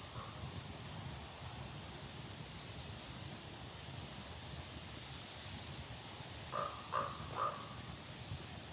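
A crow-like bird cawing three times in quick succession about seven seconds in, over a steady outdoor background. Faint, short high bird chirps come earlier.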